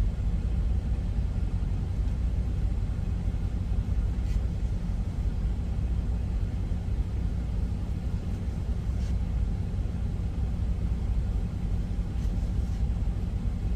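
Steady low rumble of an idling diesel truck engine, with a few faint clicks.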